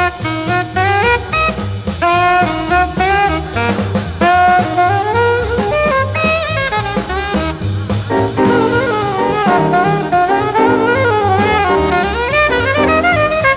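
Bebop jazz sextet playing live: a horn carries a fast melodic line over walking bass and a drum kit.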